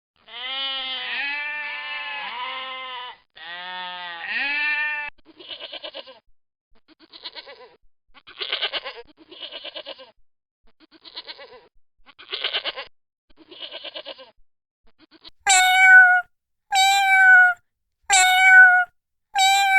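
Goat bleating: a few long, wavering bleats, then a run of shorter, quavering bleats about one a second. About three-quarters of the way in, a domestic cat takes over with four loud meows.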